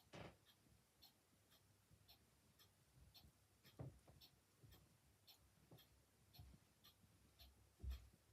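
Clock ticking steadily, about two ticks a second, with an open fire crackling softly and giving three louder pops: near the start, about four seconds in, and near the end.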